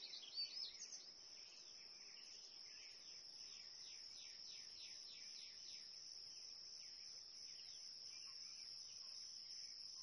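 Steady high-pitched insect chorus, like crickets or cicadas, with birds calling over it: a few quick rising and falling whistles about half a second in, then a long run of quick down-slurred notes.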